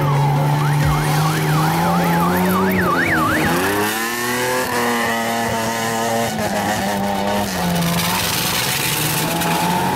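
Off-road 4x4 race vehicles' engines revving hard under load while climbing through mud. A rapid rising-and-falling siren-like wail, which speeds up, sounds over them for the first few seconds.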